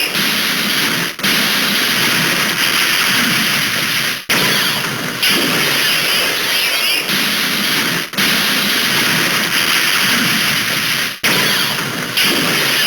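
Harsh, static-like electronic noise effect from a toy robot's sound chip, typical of its energy-attack sound. It plays as repeated segments of about three to four seconds, each cut off by a brief dropout.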